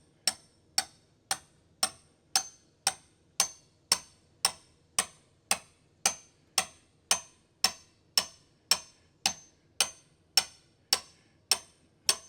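Steady ticking, about two ticks a second, perfectly even in time and strength, each tick sharp with a short high metallic ring, like a ticking clock.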